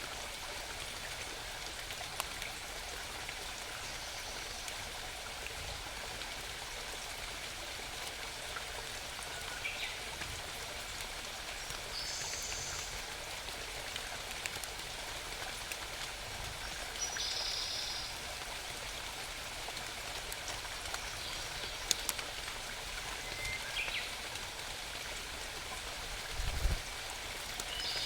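Small mountain brook babbling steadily, with short high bird chirps every few seconds.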